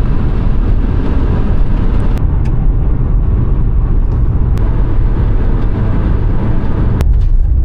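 Steady low rumble of a car driving: road and engine noise, with a few faint clicks.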